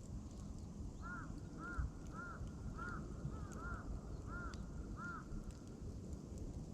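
A bird calling about eight times in a quick series, roughly two calls a second, from about a second in until near the end, over a steady low rustle and faint crackles of a wood campfire.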